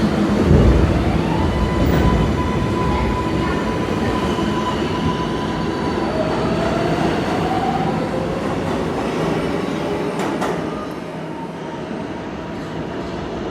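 R142A subway train running, with a heavy rumble at the start. From about a second in there is a steady thin whine, then a lower whine that rises slightly a few seconds later. The sound grows a little quieter near the end.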